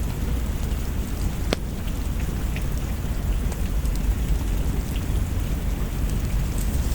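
Steady rain over a deep low rumble, with scattered sharp crackles; the loudest crackle comes about a second and a half in.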